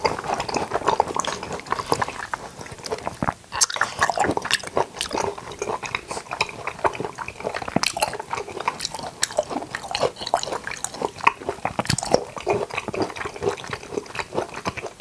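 Close-miked wet chewing of soft jackfruit strips and slippery, syrupy toddy palm seeds, with a steady run of small sticky mouth clicks and squelches.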